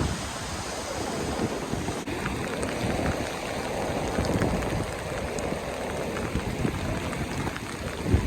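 Ocean waves washing up a beach under heavy rain, a steady rushing noise with wind buffeting the microphone.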